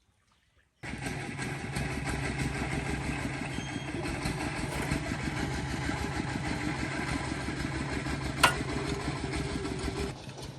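An engine running steadily, starting abruptly about a second in, with one sharp click near the end.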